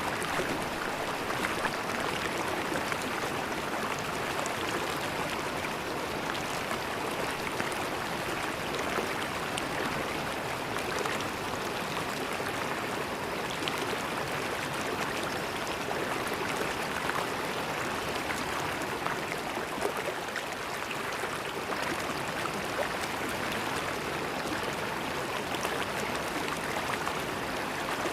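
River water flowing and gurgling steadily over the riverbed, with faint scattered splashes and trickles.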